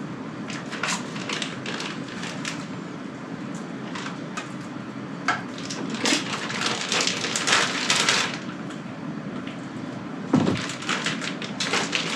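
Plastic bag crinkling and crackling as seasoned raw chicken breasts are worked out of it, busiest in the middle, with a soft thud about ten seconds in.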